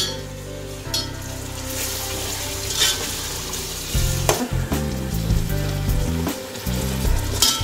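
Chopped onions, tomatoes and whole spices sizzling in hot oil in an aluminium pot, with a short rattle at the start as the spices are tipped in. From about four seconds in, a metal spatula stirs and scrapes the mixture against the pot.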